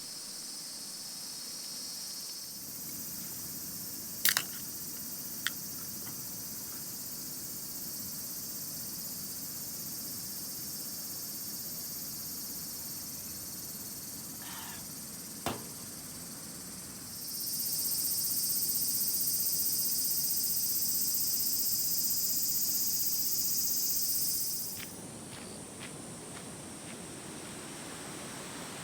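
Insects singing in a steady high-pitched drone that swells much louder for about seven seconds in the second half, then drops back abruptly. A few sharp clicks or taps come through, two in the first few seconds and one around the middle.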